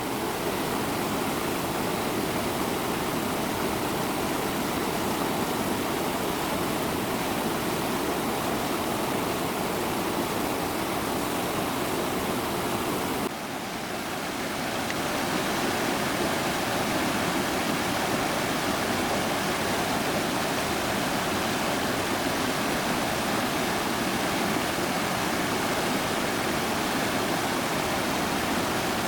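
Steady rush of flowing stream water, dipping briefly about 13 seconds in before carrying on.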